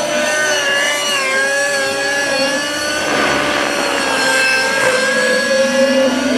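Radio-controlled model helicopter in flight: a steady high engine and rotor whine whose pitch wavers slightly up and down.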